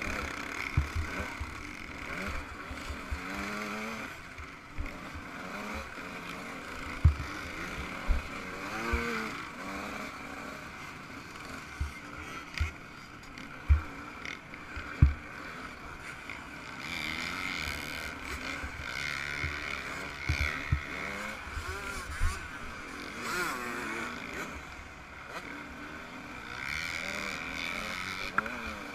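Yamaha YZ125 single-cylinder two-stroke motocross engine revving up and down as it is ridden hard, heard from an onboard camera. Low buffeting from wind and bumps runs under it, with several sharp knocks through the middle.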